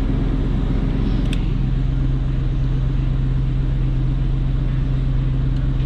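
Lexus LX470's 4.7-litre V8 idling steadily. A click comes about a second in, and then a steady low hum joins the idle.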